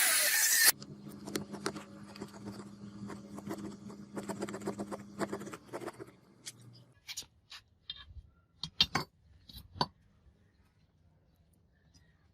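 A power tool stops abruptly less than a second in. A low hum follows, with scattered small clicks, and then a few sharp metallic clinks and taps.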